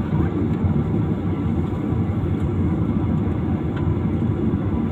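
Steady low rumble of an airliner cabin on the ground shortly before takeoff: the jet engines and air conditioning running.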